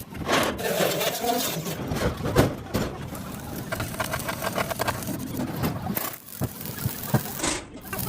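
Metal fabrication work on a sheet-steel fuel tank: irregular knocks and clatter, with quick runs of strikes about halfway through, over a steady rough machine noise.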